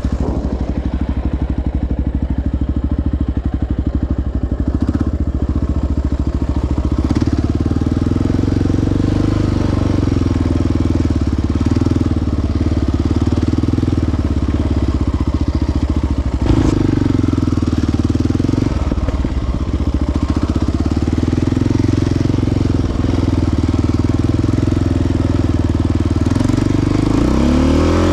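Sport quad's single-cylinder four-stroke engine running steadily as it rides a trail, with one sharp knock about sixteen seconds in and revs rising near the end.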